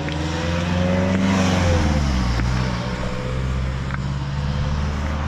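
A car passing close by, its engine note rising as it approaches and falling as it goes away, loudest about a second and a half in, over a steady low rumble.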